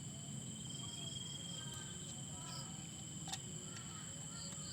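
Insects trilling in two steady high tones, with faint short bird chirps and a single sharp click about three seconds in.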